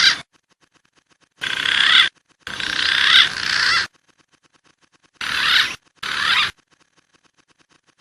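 Green pigeons (punai) calling from a lure recording: a run of short, wavering whistled calls with brief silences between. Five calls, two of them paired about halfway through.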